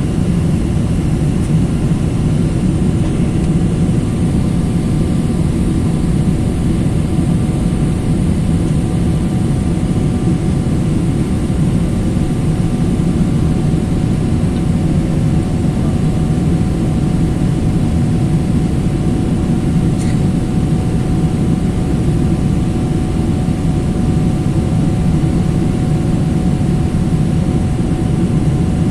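Steady roar of a jet airliner heard inside the passenger cabin: engine and airflow noise, even throughout, with a faint hum over it. A short click about twenty seconds in.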